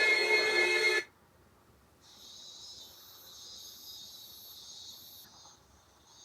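A loud sustained musical chord cuts off abruptly about a second in. After a moment of near silence, faint high-pitched chirring of insects, like crickets, comes in and fades out near the end.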